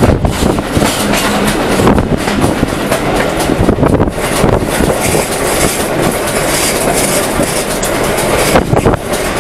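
A railway carriage running along the track, heard from on board at an open window: a loud, continuous rumble and rattle with the wheels clattering over the rails.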